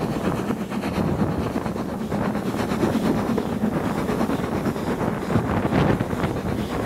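Wind buffeting the microphone held out of a moving railway carriage window, over the steady running noise of a steam-hauled train.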